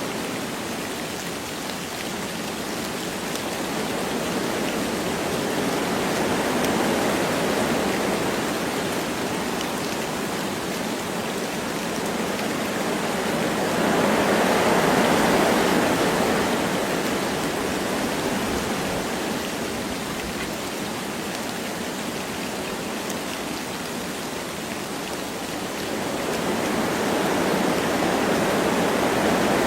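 Wind blowing through forest trees with light rain falling, a steady rushing that swells and eases in slow gusts, loudest about halfway through and again near the end.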